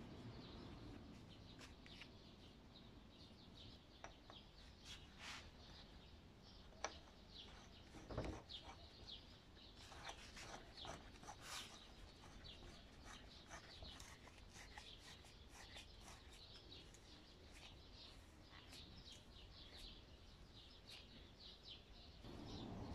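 Faint small birds chirping on and off, with a few light clicks and one soft knock about eight seconds in from brass pump parts being handled.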